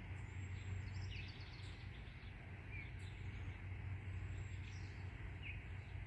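A bird calling with scattered short chirps, a quick run of notes about a second in, and brief downward whistles, which the recordist takes for an irritated bird. The calls sit faintly over a steady low hum.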